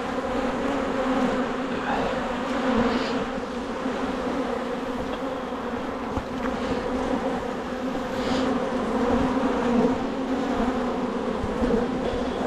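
Honeybees buzzing in a steady, continuous drone around an open hive during a frame inspection.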